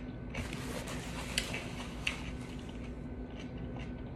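Faint mouth sounds of chewing a bite of Persian cucumber, a few soft clicks, over a steady low hum in a quiet room.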